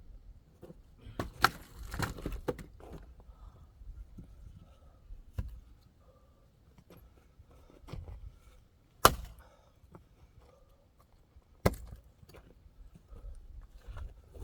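Axe blows splitting firewood logs by hand: a sharp crack of the axe striking wood every few seconds, five in all, the loudest just past the middle. A scatter of smaller knocks follows the first strike.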